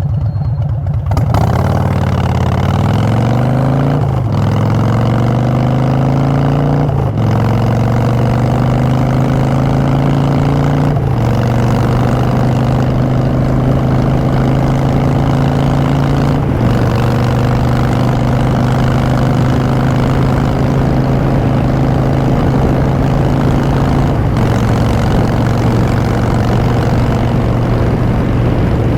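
2016 Harley-Davidson Street Bob's V-twin through Vance & Hines Short Shots exhaust, pulling away from a low idle and upshifting about five times, each shift a brief break before the note picks up again, then cruising at a steady pitch.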